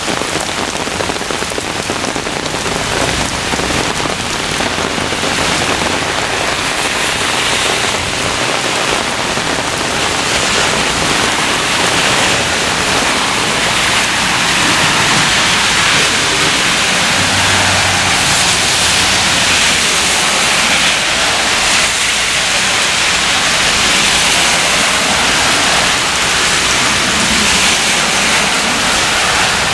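Heavy rain in a thunderstorm downpour, a steady hiss that grows a little louder over the first few seconds and then holds.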